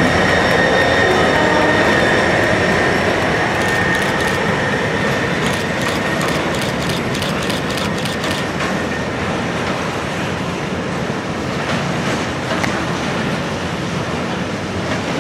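Intermodal freight train passing close by: the DRS Class 66 diesel locomotive moving away as flat wagons loaded with tank containers roll past, wheels clicking over rail joints. A steady high ring fades over the first four seconds, and a quick run of sharp clicks comes in the middle.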